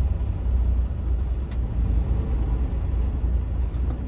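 Semi-truck's diesel engine running, a steady low rumble heard from inside the cab, with a brief click about one and a half seconds in.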